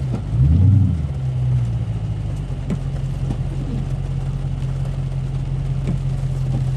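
Car engine revved once near the start, its pitch rising and falling, then running on at a steady, even hum.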